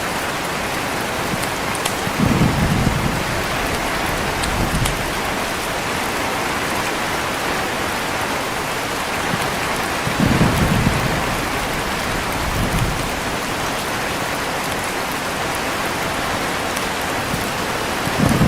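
Heavy, steady rain with low rolls of thunder rumbling up and dying away several times: near the start, around the middle, and again at the end.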